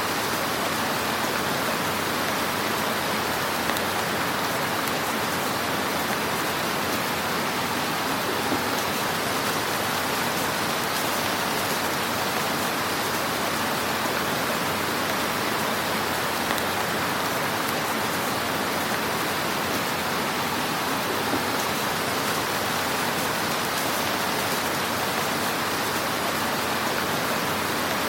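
Wood fire in a fireplace, crackling and hissing steadily, with a few faint pops.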